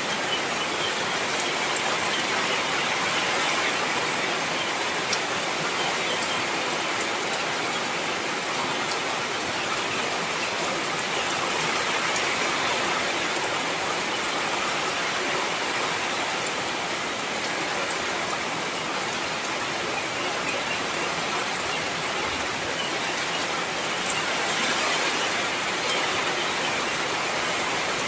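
Heavy rain falling steadily, a dense even hiss of drops hitting surfaces with faint scattered individual drop ticks.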